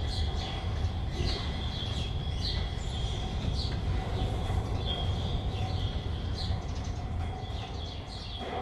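Birds chirping in short repeated calls, about one a second, over a steady low rumble.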